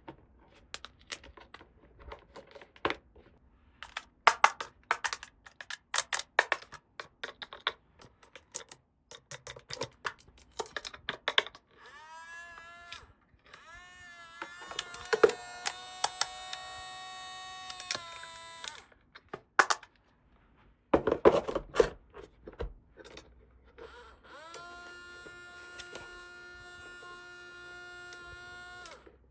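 Hard plastic toy pieces and packaging handled with quick clicks and taps, then an electronic toy plays pitched sounds twice, the first bending up and down before holding a note, the second one long held tone.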